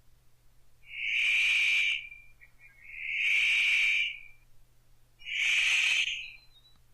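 Paradise riflebird calling: three loud, harsh calls, each about a second long and roughly two seconds apart.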